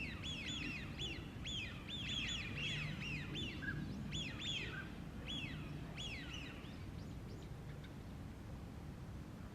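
A busy run of quick, down-slurred bird calls, many overlapping, that thin out and stop about seven seconds in, over a steady low background rumble.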